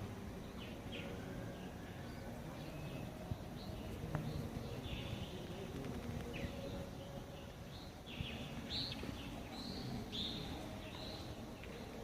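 Birds chirping in many short, high calls, scattered throughout, over a steady low background noise.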